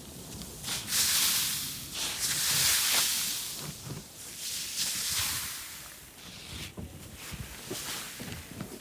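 Powdery snow being swept, in long swishing hiss-like strokes; three loud swells in the first half, then fainter scuffs.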